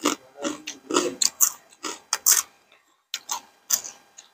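Close-miked chewing of papaya salad with rice noodles and raw vegetables: wet, crunchy mouth sounds in quick irregular bites, with a short pause a little past the middle.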